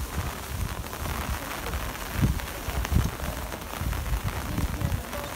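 Steady rain hiss, with irregular low thumps underneath.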